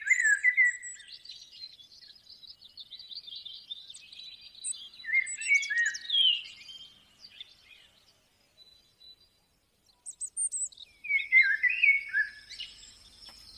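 Birds chirping in clusters of quick twittering notes: a flurry at the start, another about five to six seconds in, and another near the end, with a near-quiet lull between them.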